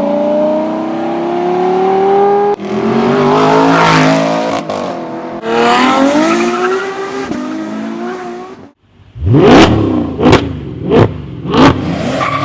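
High-performance car engines accelerating hard, one short clip after another, the engine note climbing in pitch through the gears. After a brief break near the end, an engine is revved in four sharp throttle blips.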